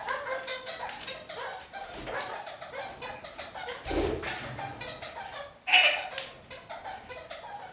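Red-crowned kakariki (parakeets) chattering with quick, repeated short notes, with one louder call just before six seconds in. A dull thump sounds about four seconds in.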